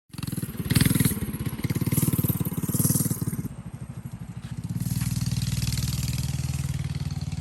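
Minibike's small engine running with a rapid firing beat, revved up in three swells, dropping off about three and a half seconds in, then picking back up to a steady run.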